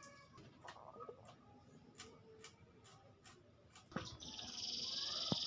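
Faint scattered ticks, then about four seconds in a domestic canary starts singing a fast rolling trill that grows louder.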